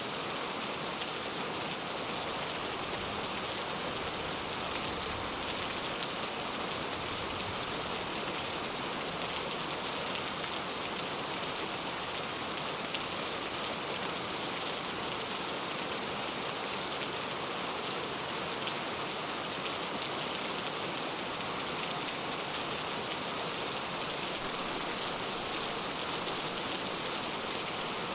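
Steady rain falling, an even hiss with a fine patter of individual drops that stays the same throughout.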